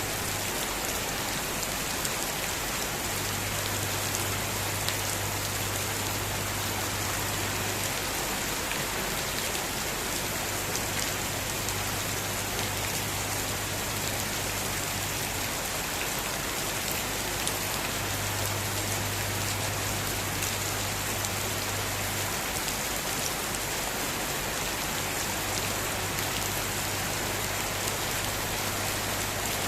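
Heavy rain falling steadily, an even hiss of water with scattered drop ticks.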